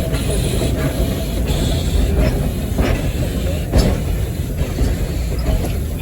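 Steam locomotive cab noise while under way: a steady heavy rumble of the running locomotive, broken by a few sharp knocks and clanks, the loudest a little before four seconds in.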